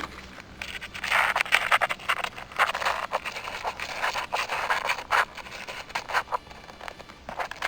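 A cat scratching its claws on the bark of a fallen tree trunk: a run of rough scraping strokes, one after another.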